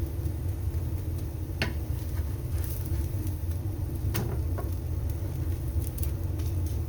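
Steady low rumble, typical of a gas stove burner running under a pan, with a couple of light clicks about one and a half and four seconds in.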